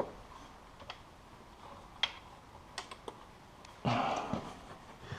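Scattered light clicks and taps of tools and metal parts being handled while working on a snowmobile exhaust, about one a second, with a short scraping rustle about four seconds in.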